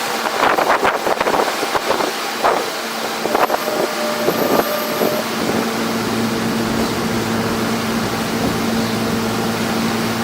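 Wind buffeting the microphone on the roof of an F subway train, with the train's clatter in the first few seconds. From about three seconds in a steady hum takes over, with a few brief squeals around four to five seconds.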